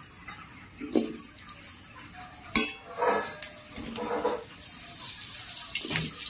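Potato pieces frying in hot oil in a pan: a steady sizzle, with several knocks and scrapes of a utensil against the pan, the sharpest about two and a half seconds in.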